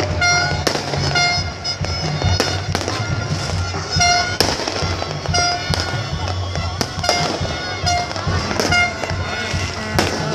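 New Year fireworks going off in a dense, irregular run of bangs and crackles, mixed with repeated short, high tooting notes.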